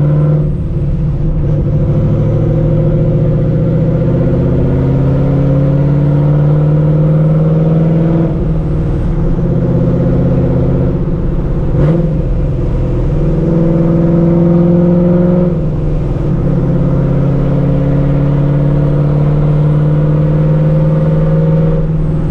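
Vortech-supercharged Ford 4.6 L two-valve V8 of a New Edge Mustang GT running through open exhaust cutouts off the X-pipe, pulling through the gears: the engine note climbs slowly and drops back at each of several shifts. A brief sharp crack about halfway through.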